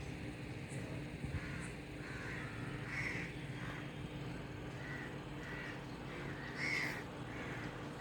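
Birds calling outdoors: a string of short calls, the clearest about three seconds in and again near the end, over a steady low background hum.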